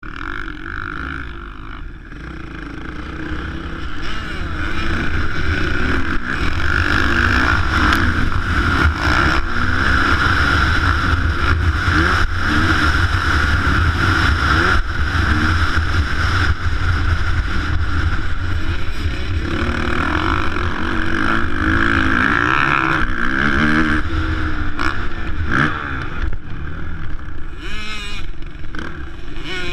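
Motocross dirt bike engines revving up and down, their pitch rising and falling again and again.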